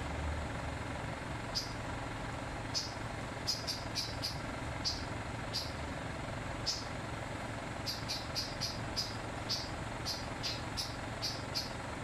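A small bird attacking its reflection in a vehicle's side mirror: irregular sharp, high ticks, one or two a second at first and coming in quicker clusters in the second half, over a steady low rumble.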